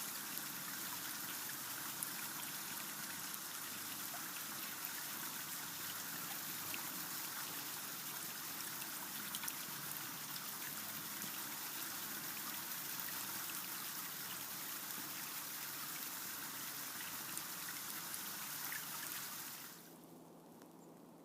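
Small stream of running water trickling and flowing steadily, with a few faint ticks. It cuts off suddenly near the end.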